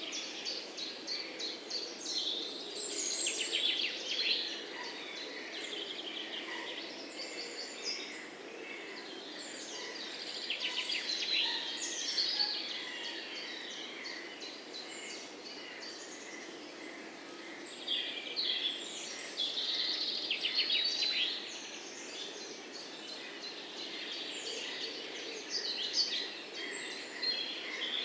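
Several songbirds chirping and trilling at once, a busy overlapping chorus of quick high notes and rapid rattling trills, over a faint steady outdoor background.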